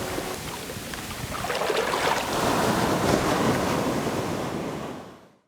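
Wind and waves at sea rushing over the microphone, a steady noise that swells about one and a half seconds in and fades out near the end.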